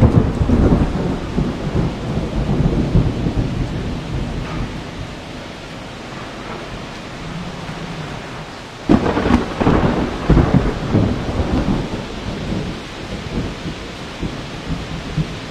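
Deep rumbling noise over a steady hiss. It swells loudly at the start, eases off, then rises again suddenly about nine seconds in.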